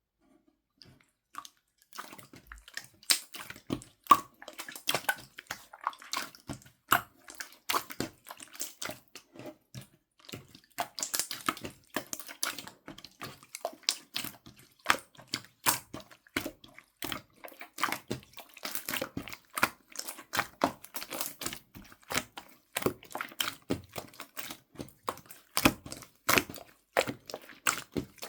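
Slime being squished and poked by hand: a dense, irregular run of sticky pops, clicks and squelches that starts after a brief silence.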